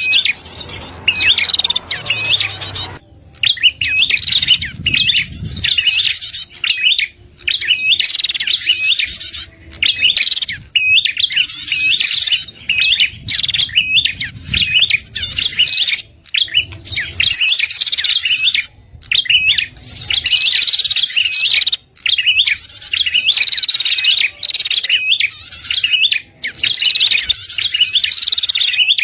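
Prenjak kepala merah call used as a trapping lure: fast, repeated high chirps and buzzy chattering in bursts of about a second, with brief gaps between them.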